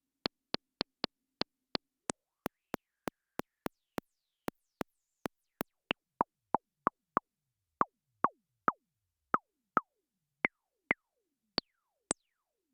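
Elektron Syntakt's analog Impulse utility machine played dry in a sequence: short sharp clicks, about two to three a second. From about halfway through, each hit becomes a brief zap with falling pitch, and the hits get louder.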